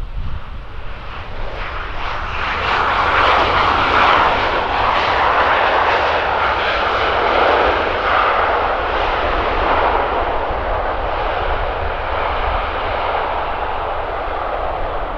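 A Ryanair Boeing 737-800's jet engines as it arrives, a rushing roar that swells about two seconds in, is loudest a few seconds later, then slowly fades. A steady low rumble of wind on the microphone sits underneath.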